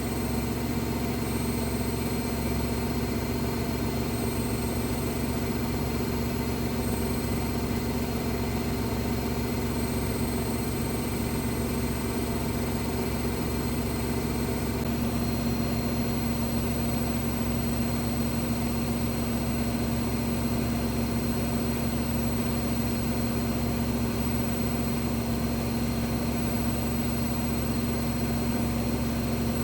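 AEG Lavamat W 1450 Electronic washing machine spinning at a steady speed, its motor giving a constant hum with a steady mid-pitched tone that grows a little stronger about halfway through.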